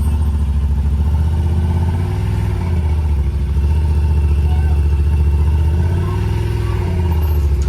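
A vehicle engine running at low speed, a steady low hum whose pitch steps up and down a few times.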